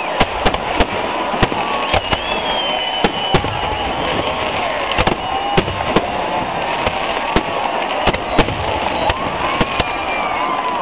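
Fireworks display: many sharp bangs going off in quick, irregular succession, with whistles gliding up and down between them.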